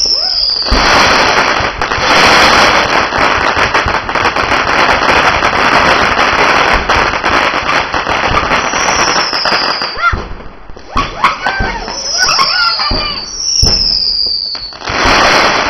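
Fireworks going off: a dense, sustained crackle of many sharp pops. It thins out about ten seconds in, and another crackling burst starts near the end.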